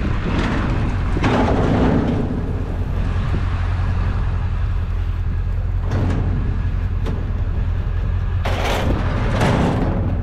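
A vehicle engine running steadily at idle, with several short scraping, rattling bursts over it; the longest and loudest comes near the end.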